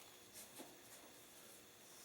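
Near silence: faint room tone with two soft clicks about half a second in.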